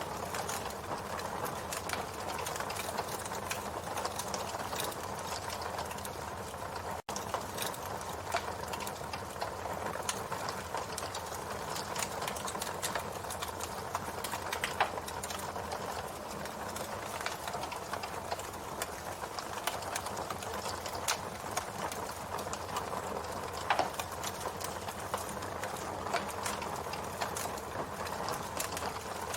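Campfire burning with steady, dense crackling and scattered sharper pops, a few louder ones standing out in the middle and later part. The sound cuts out for an instant about seven seconds in.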